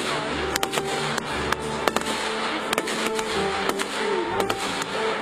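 Music playing, crossed throughout by the sharp bangs and crackling of aerial firework shells bursting.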